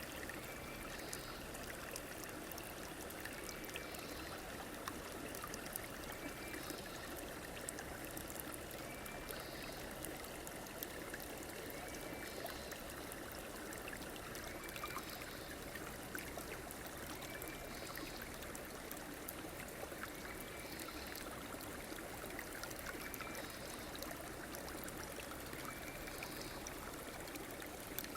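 A river or stream flowing steadily: an even rush of running water. Over it, a faint short high call repeats about every two seconds.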